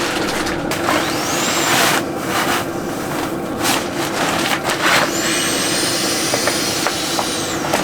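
Chinese 8 kW diesel air heater running with a steady hum, under irregular rustling, shuffling and knocks of fabric and gear being handled.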